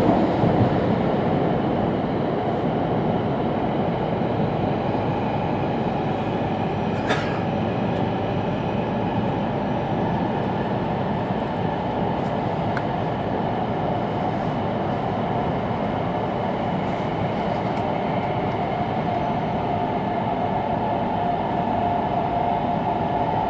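Steady running noise of an E2-series Shinkansen car heard from inside the passenger cabin, an even rumble of wheels and track. There is a brief click about seven seconds in, and a higher whine comes in near the end.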